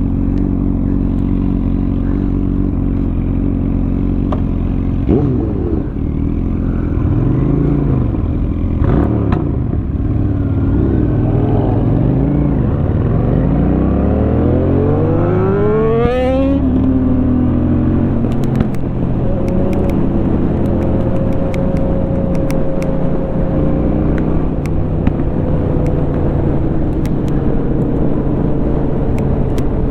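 2004 Honda Shadow 750 V-twin with a Rinehart aftermarket exhaust idling at a stop, then pulling away and rising in pitch through several upshifts before settling into steady cruising.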